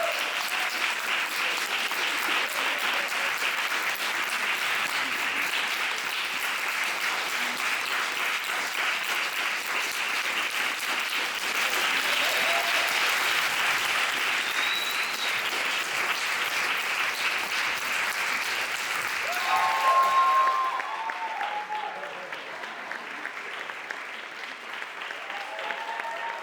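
Audience applauding steadily, with a few voices calling out near the end. The clapping thins and quietens after about twenty seconds.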